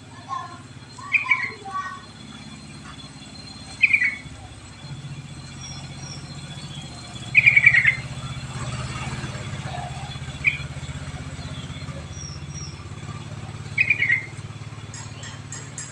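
Yellow-vented bulbul (trucuk) singing five short phrases, about one every three seconds, with faint high chirps from other birds and a steady low hum underneath.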